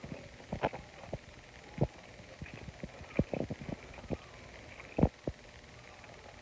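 Chewing a bite of crispy baked cheese taco shell: irregular crunches and mouth noises close to the microphone, the loudest about five seconds in.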